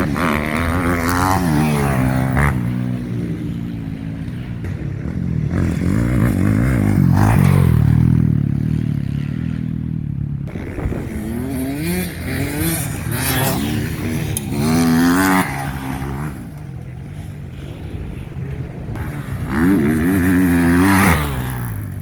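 Several motocross bikes riding past, their engines revving up and dropping off again and again as they go through the gears and over jumps, getting louder as each group nears, with the loudest passes about 7, 15 and 21 seconds in.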